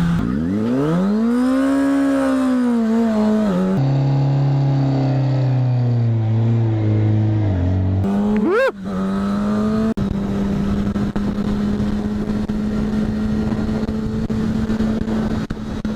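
2008 Kawasaki Ninja ZX-6R inline-four engine revving up and back down in the first few seconds, then dropping suddenly to a lower pitch as it shifts up and sinking slowly. A quick rev blip comes near nine seconds, then the engine runs at a steady pitch.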